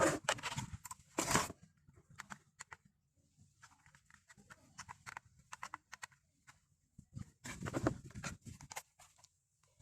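Handling noises from unboxing toy cars: irregular rustling, crinkling and small clicks of packaging and plastic. There are louder bursts of rustling about a second in and again near the eight-second mark.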